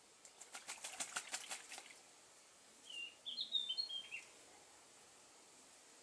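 A bird's wings flapping in a quick flurry for about a second and a half. A little later comes a short run of high, quick chirps from a small bird.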